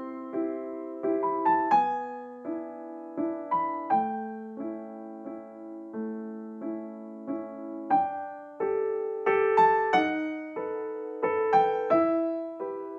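Background music: a gentle solo piano melody of single struck notes, each fading after it is played.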